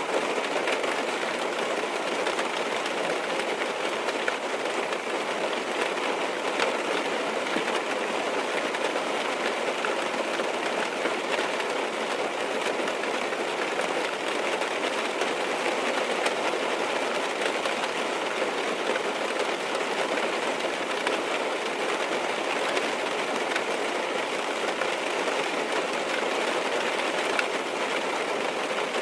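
Steady rain falling on a car's roof and windows, heard from inside the car: a dense, even patter with faint tiny drop ticks scattered through it.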